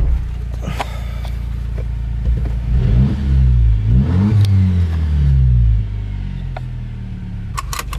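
Jeep Wrangler's 2.0-litre turbocharged four-cylinder through an AFE stainless axle-back muffler-delete exhaust, idling warm, then revved twice in the middle, the pitch rising and falling before it settles back to idle.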